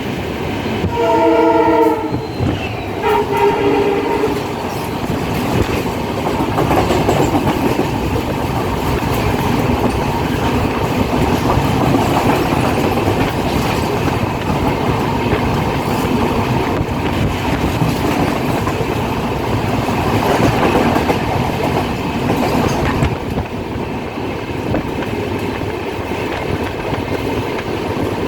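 Passenger train running on the rails with a steady rumble and rattle. A train horn sounds twice in the first few seconds: a higher blast, then a lower one.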